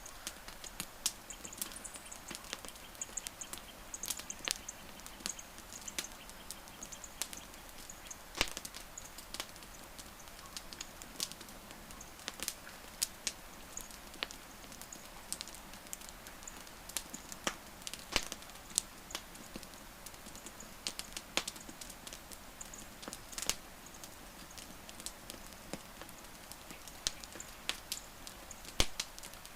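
Wood fire crackling: irregular sharp pops and snaps of burning wood over a steady hiss, with a few louder pops scattered through.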